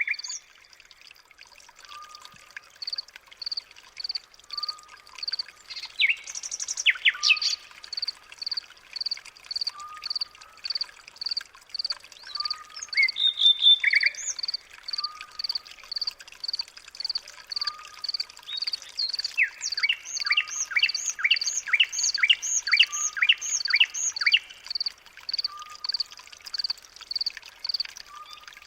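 Several birds chirping and calling. One repeats a short high note about twice a second, a lower note repeats roughly once a second, and a burst of quick falling chirps comes in about two-thirds of the way through.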